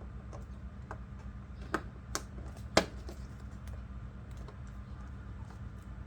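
Scattered small clicks and taps of hand work on a truck headlight assembly, the sharpest about three seconds in, over a steady low hum.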